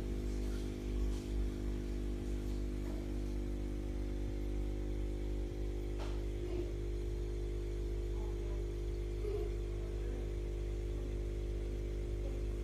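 Steady low electrical hum made of many even tones, with a faint click about six seconds in.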